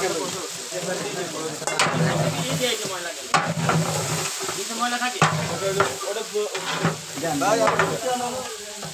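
Raw giant freshwater prawns sizzling as they hit hot oil and fried onions in a large metal cooking pot, while a long metal spatula stirs them and scrapes against the pot several times.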